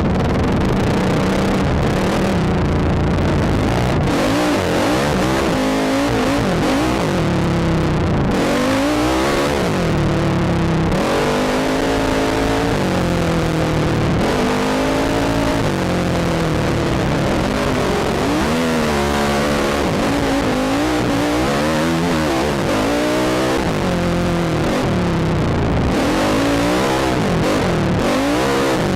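ATV engine revving up and down over and over as the throttle is worked, its pitch rising and falling every second or two.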